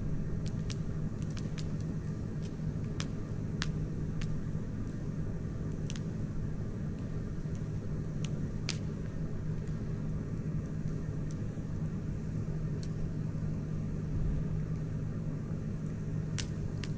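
Wood campfire crackling: irregular sharp pops and snaps, a dozen or so, over a steady low rumble.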